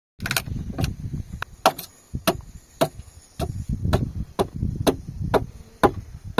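A steady run of chopping or hammering blows from a hand tool, about two sharp strikes a second.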